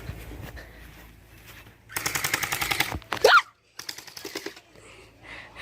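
Gel blaster firing a full-auto burst of about a second, a rapid, even rattle of shots. A short, loud cry follows, then a second, quieter burst.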